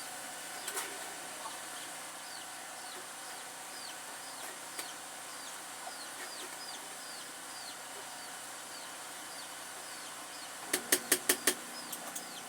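A bird chirping over and over, short falling chirps about twice a second, over a steady hiss. Near the end, five sharp knocks in quick succession.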